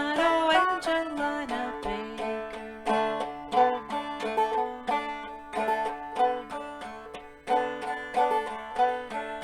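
Five-string banjo played clawhammer style in double D tuning (aDADE), plucking a steady, even run of melody notes.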